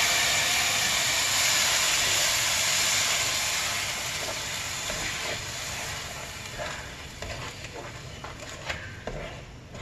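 Sizzling as tomato sauce is poured into a pan of hot oil and fried onion-ginger-garlic masala, loud at first and dying down gradually as a spatula stirs it, with light scraping knocks in the second half.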